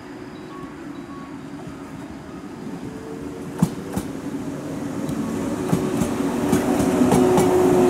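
JR West 115-series electric multiple unit running in on the track, growing steadily louder, with wheels clacking over rail joints: two sharp clacks about halfway through, then a quicker run of clacks near the end as the cars roll by.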